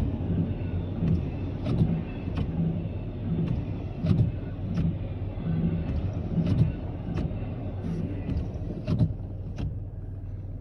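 Freight train cars rolling past: a steady low rumble crossed by sharp clicks, often in close pairs, as wheels pass over rail joints.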